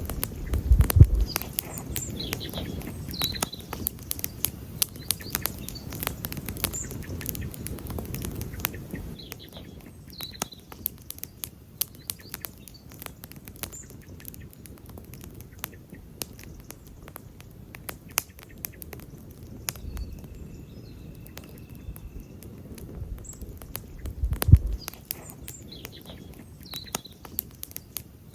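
Wood campfire crackling with a steady run of sharp pops and snaps, while birds chirp now and then in the background. There is a brief low rumble about a second in and again about 24 seconds in.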